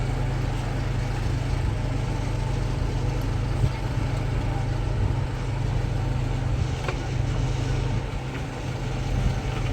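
A steady low mechanical hum, like an engine or motor running, with a couple of faint knocks.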